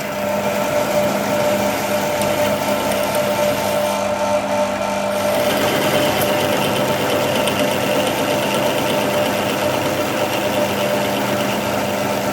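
A machine's motor running steadily with a constant hum; about five seconds in, a higher whine joins it.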